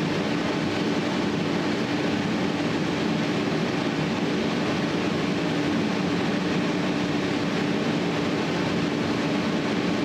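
Steady, unchanging mechanical drone: an even noise with a constant low hum running through it.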